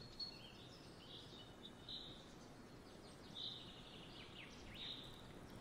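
Near silence, with a few faint, short, high chirps like distant birds scattered through it, a couple of them falling in pitch near the end.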